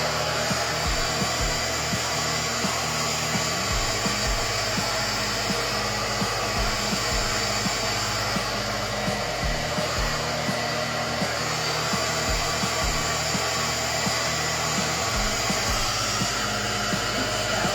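Handheld hair dryer blowing hair, a steady, loud airy rush.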